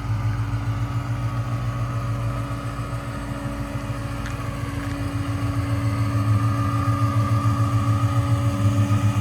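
A car engine running at low revs with a steady pulsing note, growing louder over the second half.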